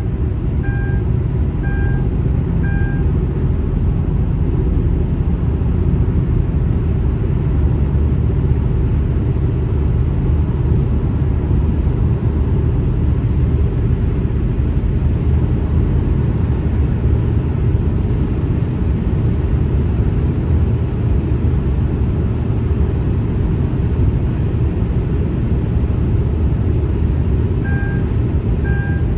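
Steady low rumble of highway traffic and tyre road noise. Short, evenly spaced beeps sound about once a second three times at the start and again near the end.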